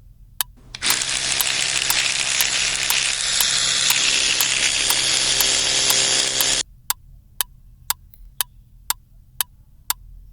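Electric toothbrush buzzing with a hissy brushing noise, starting about a second in and stopping suddenly after about six seconds. A clock-like tick sounds about twice a second throughout.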